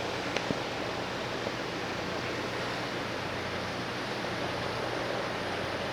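Steady wash of wind and sea noise, with a low steady hum underneath.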